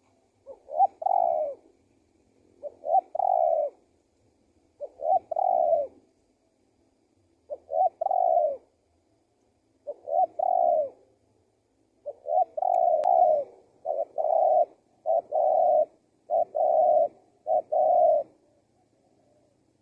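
Male spotted dove cooing in a repeated phrase, a short note or two followed by a longer coo. It gives about ten phrases, coming faster in the second half.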